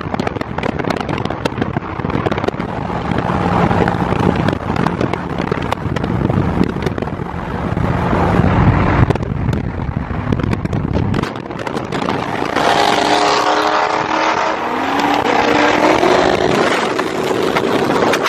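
Performance car engines running hard during a group cruise, with exhaust noise throughout. About two-thirds of the way in, one engine revs up, its pitch climbing as it accelerates.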